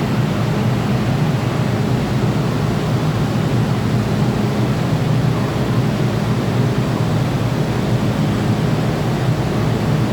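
Steady, even noise inside an MTR M-Train carriage, with a low hum under a wide rushing hiss that does not change.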